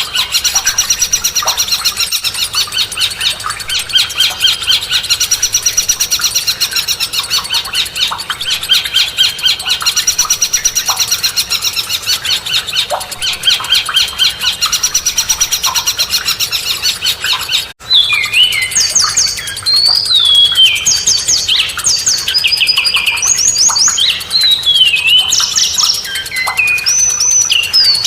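Recorded songbird song. A fast, even chattering trill runs for the first eighteen seconds or so, then cuts off abruptly. A different song takes over: separate clear whistled notes that slide up and down in pitch.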